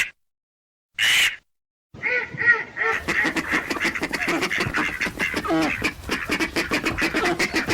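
Ducks quacking in a busy, overlapping chorus that starts about two seconds in and thickens a second later. It is preceded by two short hissing bursts with dead silence between them.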